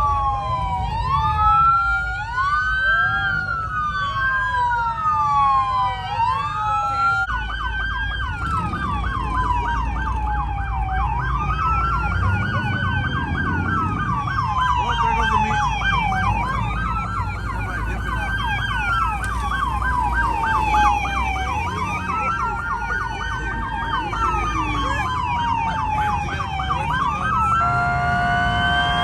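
Police car sirens wailing, rising and falling: two wails overlap at first, then from about seven seconds in a rapid pulsing tone runs over a single wail. Near the end a steady blaring horn tone comes in. A low engine rumble runs underneath.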